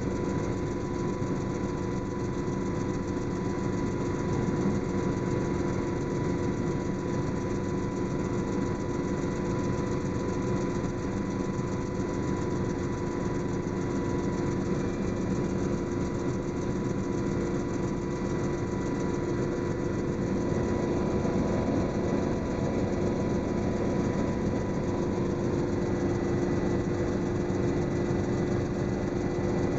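Helicopter in flight heard from inside the cabin: a steady drone of engine and rotor with a few constant held tones, unchanging throughout.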